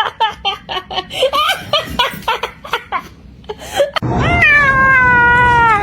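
Short rapid bursts of a person's laughter, then, about four seconds in, one long drawn-out cat meow that falls slightly in pitch.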